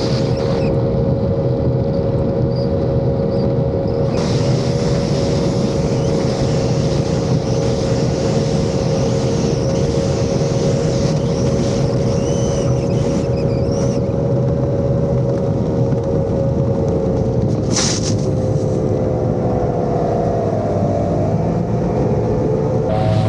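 Twin Mercury 2.4L V6 outboards on a race boat running flat out at a steady high pitch, with water and wind hiss. A short burst of noise comes about 18 seconds in. The revs dip briefly near the end and climb back.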